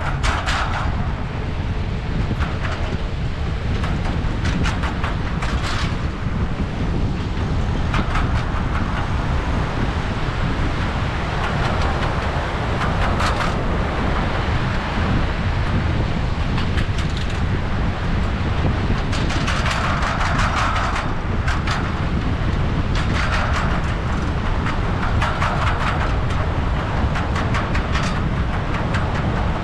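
A train rolling past: a steady low rumble with irregular rattling and clicking from the wheels on the rails.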